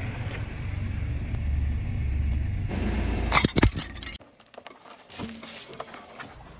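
A car's low engine and tyre rumble, then a quick run of sharp cracks as something is crushed under a tyre, about three and a half seconds in. The rumble cuts off suddenly soon after, leaving quieter sound with one more crack.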